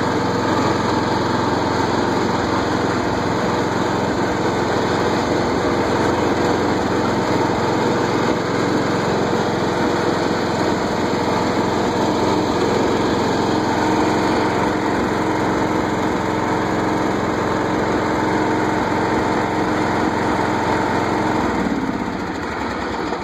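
Simplicity Regent riding mower's 14 hp Briggs & Stratton engine running steadily under load with the mower blades engaged, easing off a little near the end.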